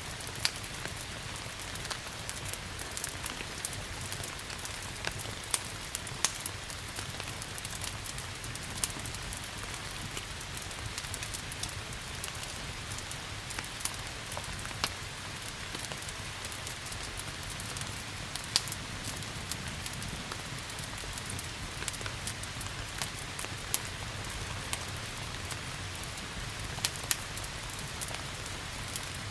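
Steady rain hiss mixed with the irregular sharp crackles and pops of a burning wood fire, over a low, even rumble.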